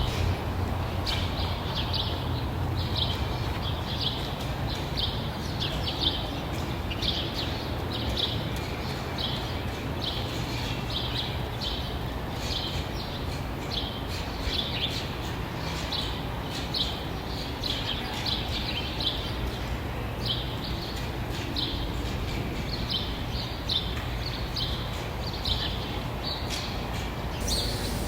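A bird chirping over and over, short high chirps about one a second, over a steady low rumble.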